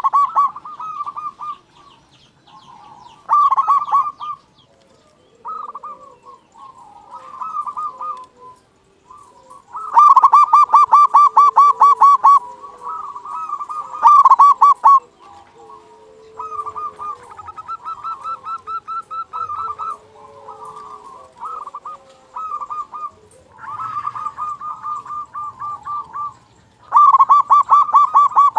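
Zebra dove (perkutut) in full song: bursts of fast, evenly repeated short cooing notes, each burst lasting one to three seconds and coming again and again, with fainter lower coos between the bursts.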